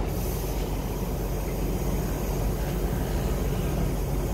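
Passenger train rolling slowly through a station, heard from an open carriage window: a steady low rumble with no breaks or distinct knocks.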